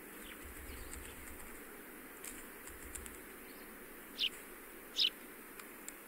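Two short, high bird calls about a second apart, the loudest sounds here, over a steady faint hiss.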